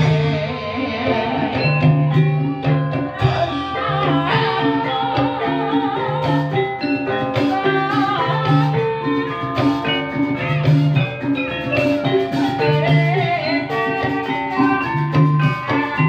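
Live ebeg accompaniment in a dangdut-flavoured style: metal mallet instruments ring out steady notes over a regular drum pulse, with a wavering melody line rising above it now and then.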